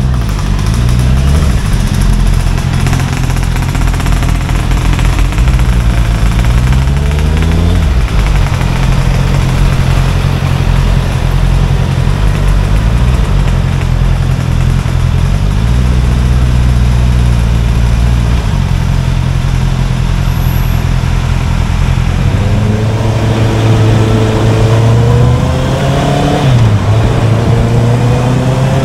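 Honda CBR650R's inline-four engine running under way, its revs rising and falling with gear changes, most clearly about seven seconds in and again near the end.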